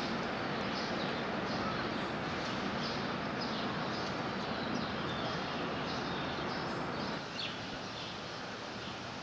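Small backyard birds chirping in short, high, repeated notes about once or twice a second, the last and clearest just past the middle, over a steady background hiss.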